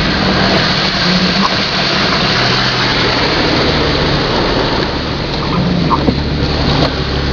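Car driving along a flooded street: a steady rushing hiss of tyres through standing water over the low hum of the engine.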